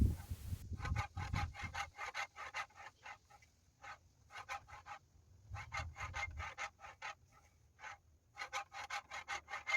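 A sandpaper-faced sharpening head on a fixed-angle katana jig, rubbed back and forth across the blade's edge bevel. It makes quick, even strokes at about four a second, in several runs with short pauses between them.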